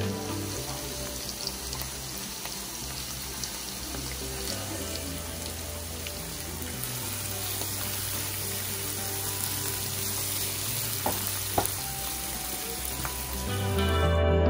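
Onions and spices frying in oil in a nonstick pan: a steady sizzle, with two light knocks about eleven seconds in.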